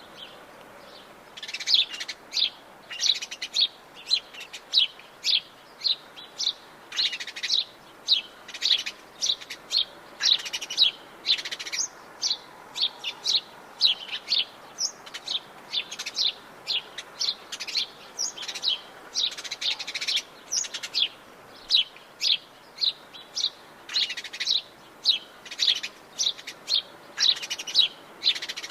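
Birds singing in the Atlantic Forest: rapid strings of short, sharp chirps, several a second, over a faint steady background hiss.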